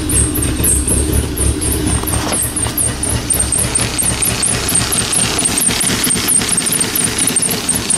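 Carbureted 2.2-litre four-cylinder of a 1985 Dodge Aries being cold-started at about 42 °F without pumping the gas pedal, cranking over and running. The low throb changes character about two seconds in.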